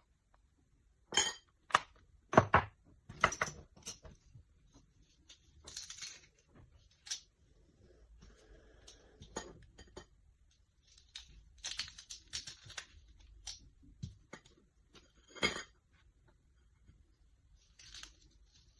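Kitchen utensils and dishes clinking and knocking during food preparation: a quick cluster of sharp knocks near the start, one more strong knock a little past the middle, and softer scraping and rustling in between.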